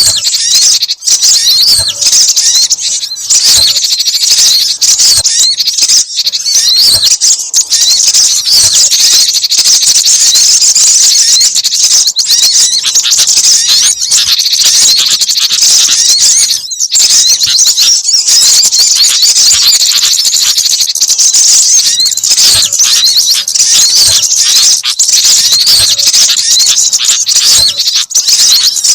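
Dense, unbroken chorus of rapid, high-pitched small-bird chirps and twitters from a bird-lure (pikat) recording that mixes the calls of several small songbirds, meant to draw wild birds in.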